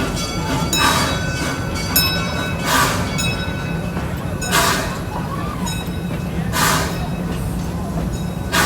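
Steam locomotive working slowly: a sharp hiss of steam exhaust about every two seconds over a steady low rumble.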